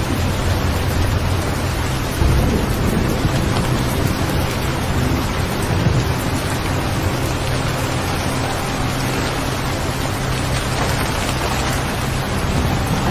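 Steady rain, an even hiss with a low rumble that swells about two seconds in and again about six seconds in.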